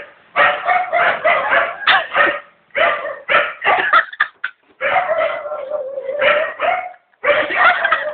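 Dog barking and yipping excitedly in rapid volleys, with short pauses between the bursts.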